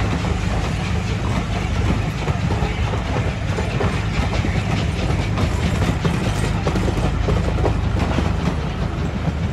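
Train of passenger coaches rolling past close by: a steady rumble with the clickety-clack of wheels over rail joints.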